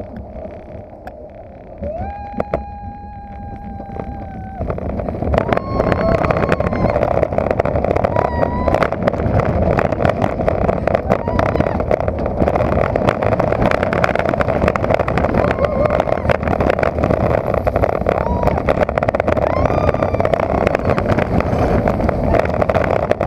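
A roller coaster car rattling and rushing along its track, with wind blasting over the on-board microphone. Shortly in comes one long held cry from a rider, then about five seconds in the ride speeds up into a loud rush with brief yells over it.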